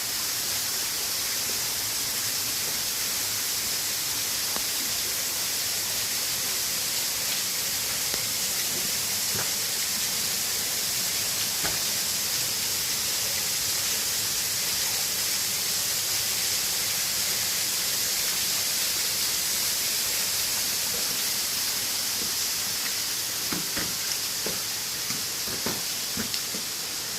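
Steady rushing water of a waterfall, an even hiss, with a few light knocks near the end.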